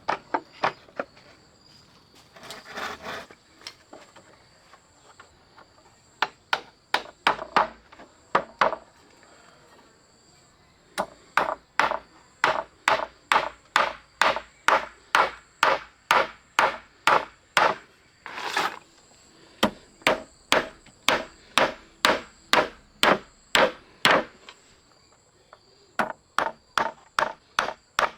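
Repeated knocks of blows on wood, about two a second, in several runs with short pauses, with a brief scraping rub between runs. Insects keep up a faint steady high drone underneath.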